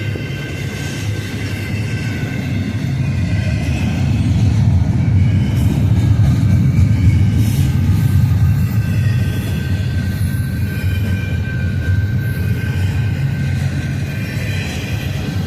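Intermodal freight train's cars rolling past with a steady heavy rumble, growing louder in the middle, and faint high wheel squeal coming and going.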